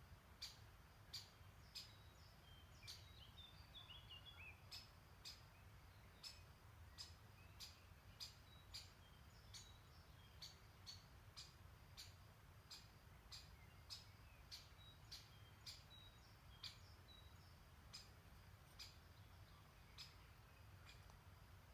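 Faint birdsong: a bird repeats a short, sharp, high call about once or twice a second, and a brief twittering phrase comes in a few seconds in, over a steady faint low background hiss.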